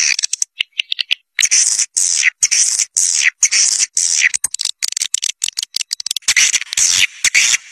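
Swiftlets calling: a fast run of high, buzzy chirps, about two a second, with sharp clicks between them. This is a swiftlet caller recording, the kind played to lure a flock to a nesting house.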